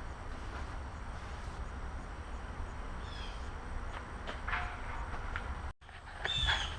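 Outdoor background: a steady low rumble with a few short bird chirps. The sound cuts out abruptly for a moment near the end.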